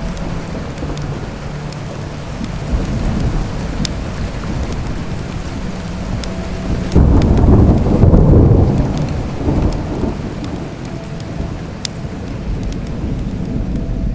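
Steady rain with a thunderclap: a low rumble breaks in suddenly about halfway through, swells and fades over about three seconds, after a smaller rumble a few seconds earlier. Scattered sharp crackles run throughout.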